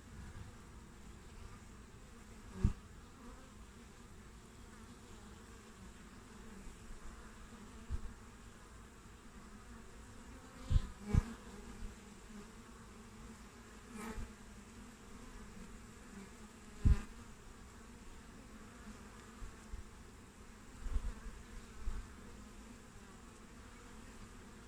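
Honeybees (Apis mellifera) buzzing at the hive entrance: a steady low hum of many bees, broken by a handful of brief, much louder buzzes as single bees fly close past the microphone.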